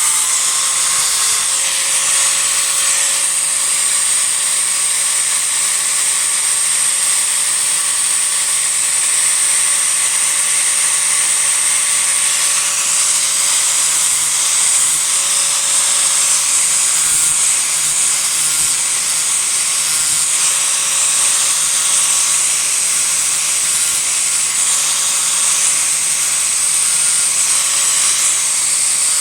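Disc grinder running steadily with a constant whine, its disc grinding into a cedar offcut to rough out a carving.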